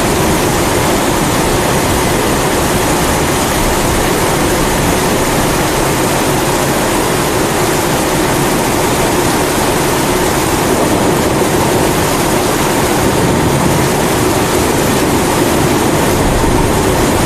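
Steady roar of a pressurized kerosene (Primus-type) stove burner layered with a continuous hiss of rain.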